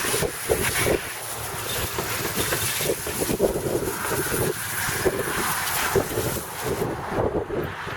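Garden hose spraying water onto a car engine to rinse it, an uneven splashing hiss that thins out about seven seconds in.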